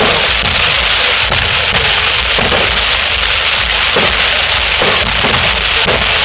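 Fireworks display going off: a dense, steady crackle with frequent bangs about every half second.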